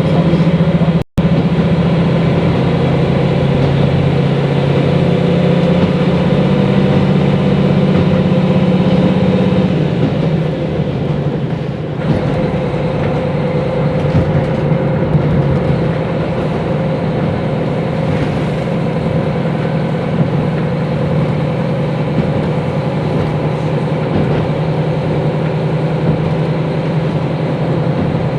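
Diesel railcar under way, heard from inside the car: the engine drones steadily under the running noise of the train. About ten seconds in the engine note eases and the car runs on a little quieter. The sound cuts out completely for an instant about a second in.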